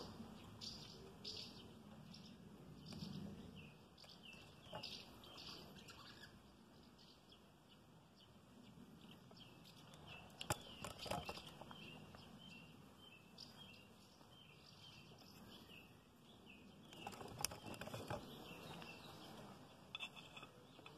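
Faint background birdsong: small birds chirping over and over. A few sharp clicks and rattles of handling come about halfway through and again near the end.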